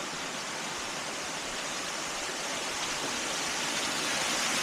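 Rushing water of the Obed River in flood: a steady hiss that grows slowly louder.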